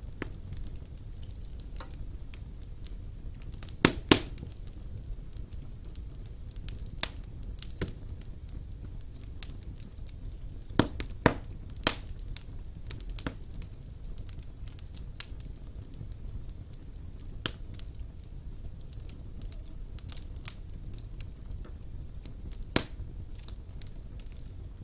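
Wood fire burning in a fireplace: a steady low rush of flame with scattered crackles and sharp pops of burning logs, a few louder pops about four seconds in, around eleven to twelve seconds, and near the end.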